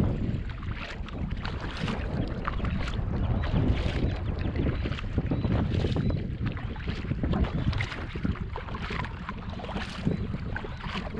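Kayak paddle dipping and splashing in calm water with irregular drips, under a steady low rumble of wind buffeting the microphone.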